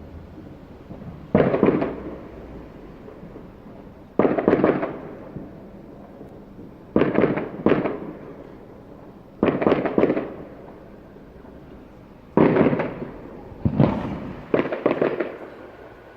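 Fireworks going off: about ten sharp bangs every two to three seconds, some in quick pairs, each fading away over about a second.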